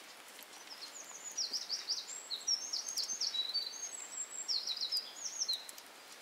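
A small songbird singing: quick runs of high, sharply sliding chirping notes in several phrases, over faint steady background hiss.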